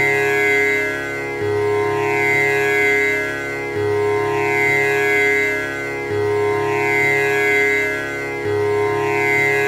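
Tanpura drone: its strings plucked in an unbroken repeating cycle about every two and a half seconds, each cycle starting on the low string. The buzzing overtones swell and sweep over each note as it rings on.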